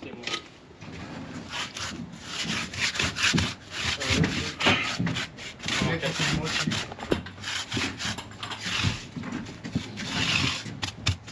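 Gritty, sand-mixed oil-based paint being scrubbed onto a truck surface in repeated rubbing strokes, about one a second.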